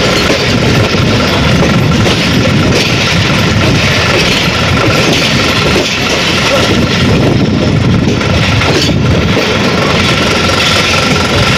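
Pakistan Railway passenger train in motion, heard from an open coach door: a loud, steady rumble of wheels on the track, with a thin steady high tone running through it.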